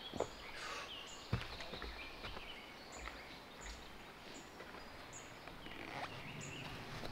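Woodland songbirds calling: a short high call repeated every half second to a second, with lower song phrases among it. A single sharp knock sounds a little over a second in.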